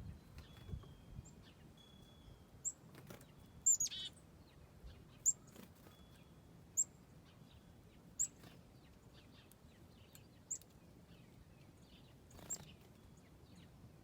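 Backyard songbirds calling: sharp, high chip notes repeated every second or two, with a short buzzy trill about four seconds in.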